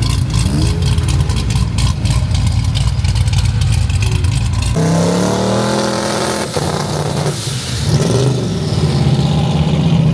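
Loud sports-car exhausts. For about the first half there is a deep steady rumble with crackle; then it changes abruptly to an engine revving, its pitch rising and falling several times.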